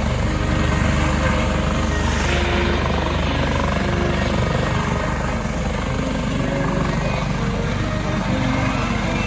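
Coast Guard helicopter running, a steady loud rotor and turbine noise with a fast beat from the blades.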